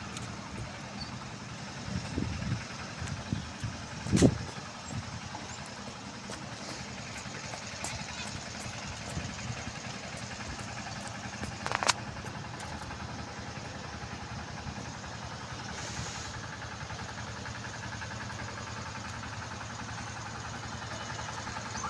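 A motor vehicle's engine running steadily, with a few knocks about two to four seconds in, a sharp louder one just after four seconds, and another sharp click near twelve seconds.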